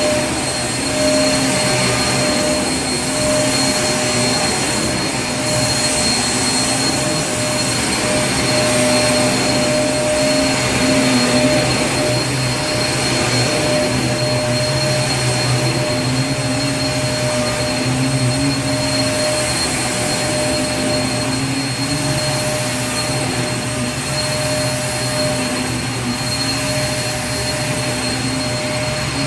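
Vacuum cleaner running continuously: a steady rush of air noise with a constant motor whine, unchanging throughout.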